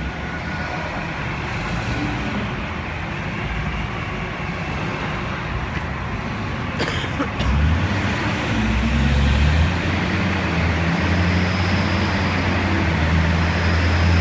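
A forklift engine running. About halfway through there is a sharp knock, and then the engine grows louder with a strong low hum as it works harder.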